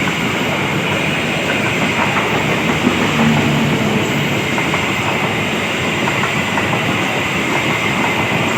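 Jayabaya passenger train running along the track, a loud, steady rushing noise of wheels on rails with no break.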